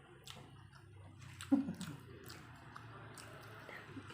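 Close-up wet chewing and mouth smacking of someone eating, with sharp lip and tongue clicks about once a second. About a second and a half in, the loudest click comes with a short, low, falling voice sound.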